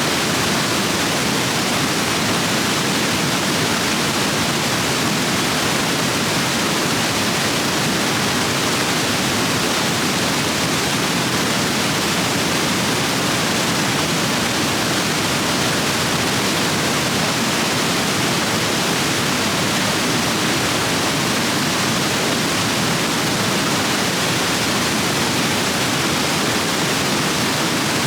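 Rapids running high after heavy rain: a loud, steady rush of fast water over rocks.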